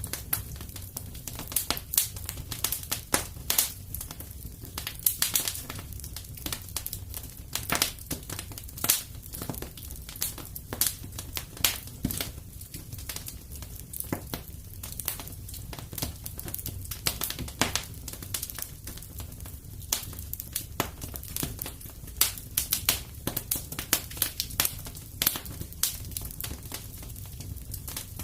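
Wood fire crackling steadily in a fireplace, with irregular sharp pops and snaps over a low rumble of flames.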